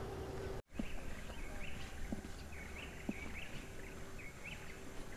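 Small birds chirping, many short high calls in quick succession over a quiet outdoor background; the sound drops out for a moment just before the chirping begins.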